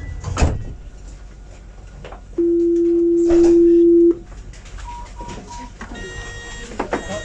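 Electronic signal tones aboard a tram: one steady low tone lasting under two seconds and growing louder halfway through, then three short, higher beeps in quick succession.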